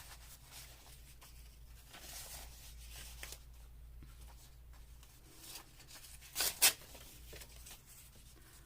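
Paper ephemera being handled: soft rustling of paper pieces, with two sharp crinkles in quick succession about two-thirds of the way through.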